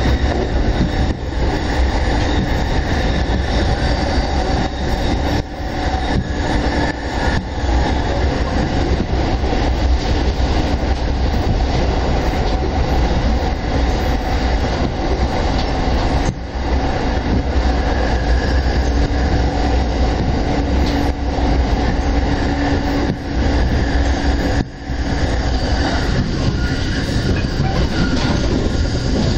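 JR Keiyo Line electric commuter train running at speed, heard from inside the carriage: a steady rumble of wheels on rail. The sound dips briefly twice.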